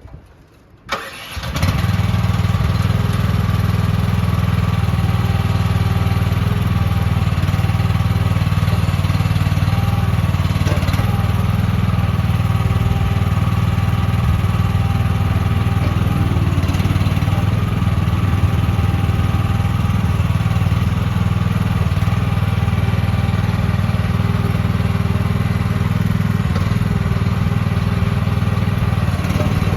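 The mini excavator's 13.5 horsepower gas engine starts about a second in and then runs steadily.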